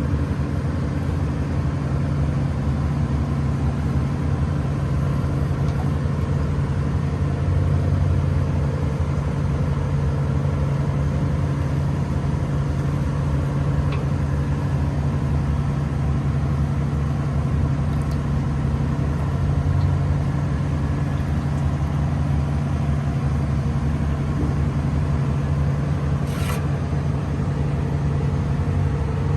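An engine running steadily at an even speed, a constant low drone that does not change. A brief high chirp sounds near the end.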